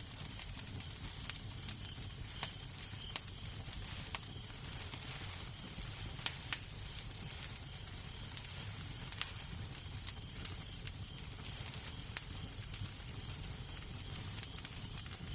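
Wood fire crackling in a fireplace: irregular sharp pops and snaps over a steady low rumble and soft hiss.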